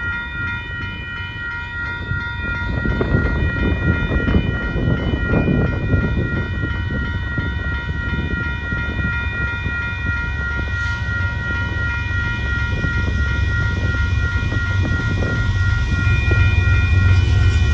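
Grade-crossing warning bell ringing steadily over the low rumble of a Union Pacific auto train. The rumble grows louder from about two seconds in as the train reaches the crossing.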